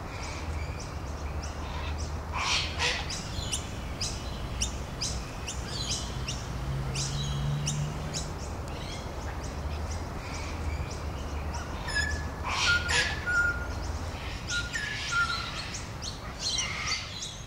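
Birds chirping and calling in short notes scattered throughout, with a few brief whistled notes about twelve seconds in, over a low steady rumble.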